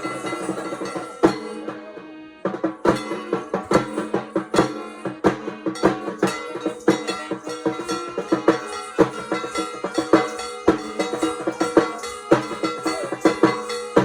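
Music with fast, dense drumming and metallic percussion over a steady held drone tone, with a brief lull about two seconds in.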